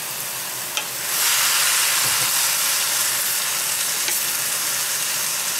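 Chicken, rice and vegetable stir-fry sizzling in a hot carbon steel wok as it is stirred with a bamboo spatula. The sizzle grows louder about a second in and then holds steady, with a couple of faint ticks.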